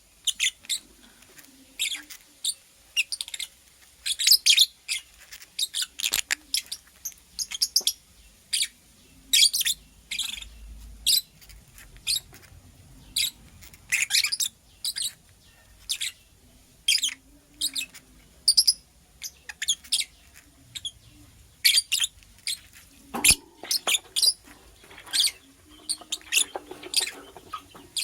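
Lovebird chirping: many short, sharp, high-pitched chirps in quick, irregular succession, about one or two a second.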